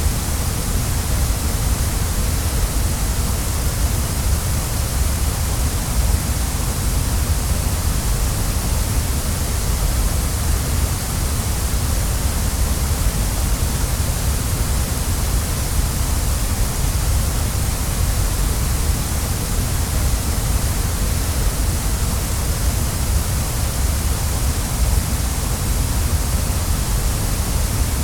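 Waterfall, falling water rushing in a steady, unbroken wash with no separate splashes or changes.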